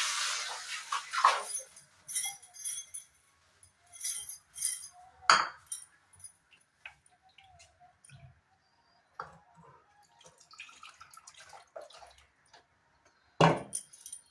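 Kitchen handling sounds: dishes and utensils clinking and knocking, with a short hiss at the start and two sharper knocks, one about five seconds in and one near the end.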